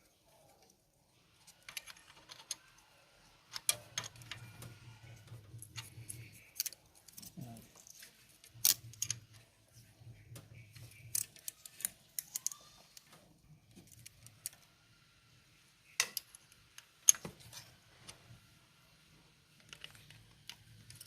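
Metal hand tools clinking, tapping and clicking at irregular intervals against the rocker arms and valve train of a Mitsubishi 4D56 diesel engine during valve-clearance adjustment, with a few sharper clanks among lighter ticks.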